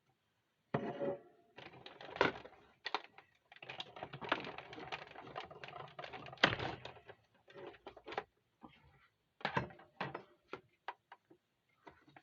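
Hand-cranked Stampin' Cut & Emboss machine running an embossing folder through its rollers: irregular clicking and clattering of the plastic plates and folder, with a few louder knocks.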